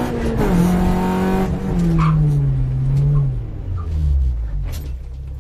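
Honda Civic's VTEC four-cylinder engine, heard from inside the cabin, with its revs falling in steps as the car slows. It settles to a low, steady idle about four seconds in.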